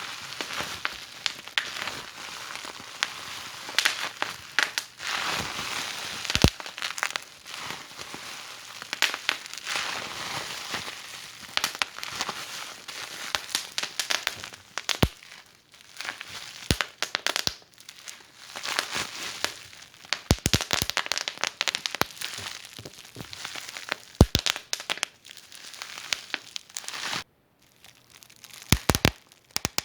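Wood fire in a fireplace crackling: dense, irregular snaps and pops over a steady hiss of burning, with a brief drop-out about 27 seconds in.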